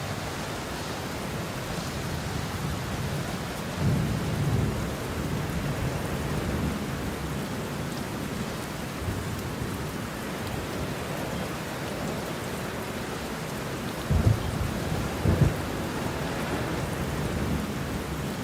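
Steady rain with thunder: a rolling rumble about four seconds in, and two sharp cracks of closer thunder near the end.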